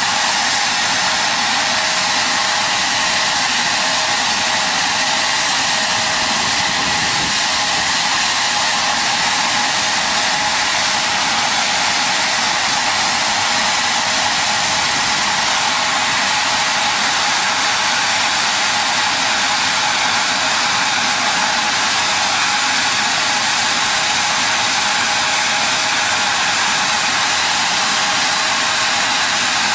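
A loud, steady mechanical rushing hiss with a constant whine running through it, unchanging throughout.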